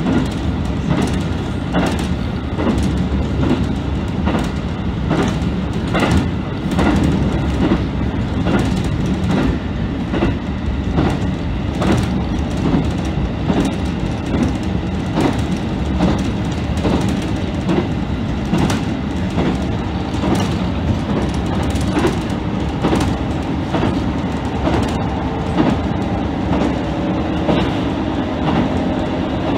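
A JR KiHa 75 diesel railcar running at speed, heard from inside. Its engine and running gear give a steady rumble, and the wheels click over rail joints in an even rhythm of roughly one to two clicks a second. A steadier hum comes in near the end.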